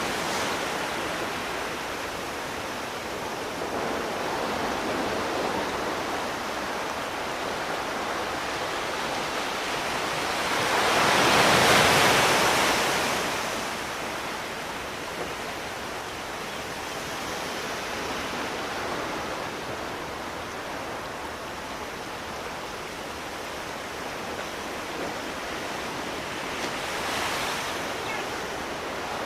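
Sea waves washing on the shore: a steady rush of surf, with one larger wave swelling up and breaking about twelve seconds in, and a smaller surge near the end.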